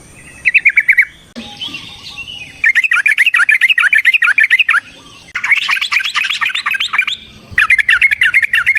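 Yellow-vented bulbul (trucukan) singing in rapid, chattering runs of repeated notes: a short burst about half a second in, then three longer runs of about two seconds each, close together.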